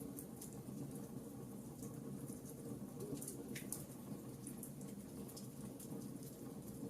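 Wood fire crackling: irregular small snaps and pops over a steady low rush of burning.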